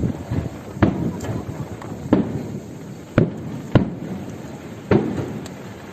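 Aerial fireworks shells bursting: five sharp bangs about a second apart, each trailing a short low rumble, over a murmuring crowd.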